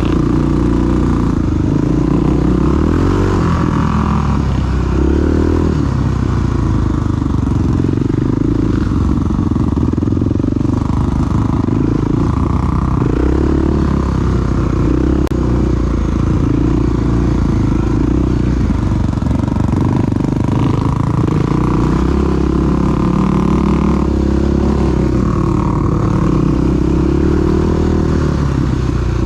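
Big single-cylinder four-stroke dual-sport motorcycle engine running while riding, its pitch rising and falling with the throttle.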